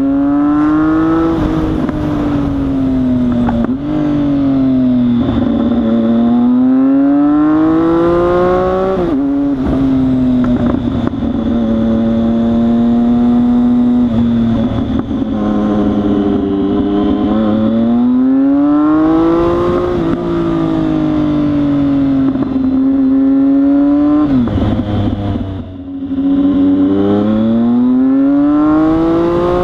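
2014 Triumph Speed Triple 1050's inline three-cylinder engine on open headers, with the exhaust cans removed, ridden hard. It climbs in pitch through the gears, drops sharply at each shift or throttle lift, and holds steadier in between.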